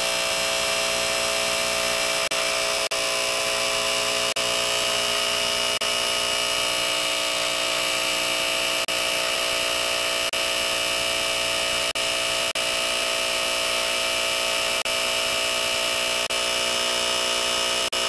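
Small electric motor of a toy O-gauge rocket-launch gantry running steadily as the gantry is driven back. It gives a buzzing whine with brief dropouts every second or two.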